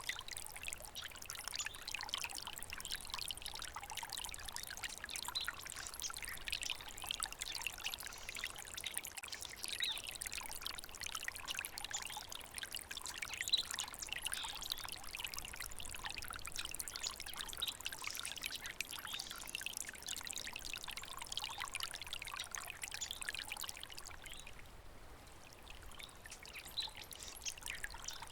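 Small stream of water trickling and splashing steadily over stones, briefly softer near the end.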